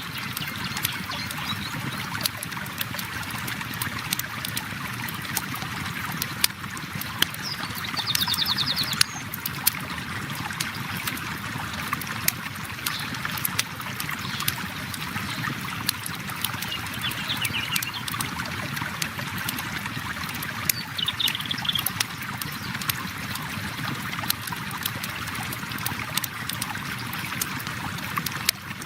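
Steady rush of a flowing river with a wood campfire crackling over it in many small sharp pops. A few short high chirps from a bird break in now and then, the longest about eight seconds in.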